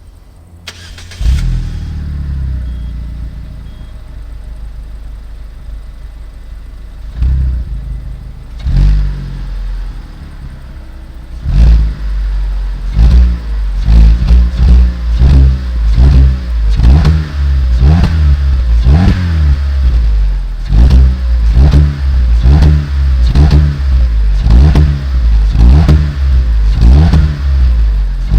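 Peugeot 206 1.4 16v four-cylinder petrol engine starting about a second in and idling, then revved with a couple of blips. From about halfway it is revved in short repeated blips, roughly one a second.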